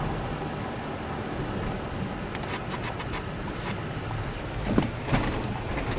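A vehicle's steady low rumble as it travels over rough ground, with a few rattles and two louder knocks near the end.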